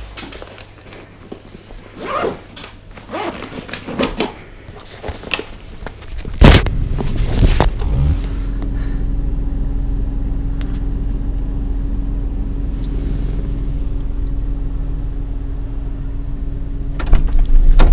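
Rustling and handling of a bag and camera with a zip, then a loud knock about six seconds in. From about eight seconds a car engine idles steadily, heard from inside the cabin.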